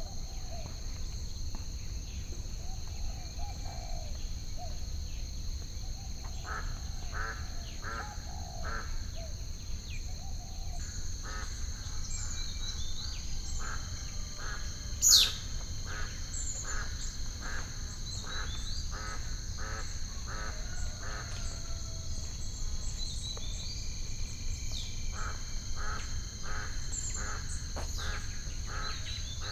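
Bird ambience: one bird gives rapid repeated calls, about two or three a second, in several runs, while small birds chirp. About halfway through, one sharp rising whistle stands out as the loudest sound. Under it all run a steady high-pitched drone and a low rumble.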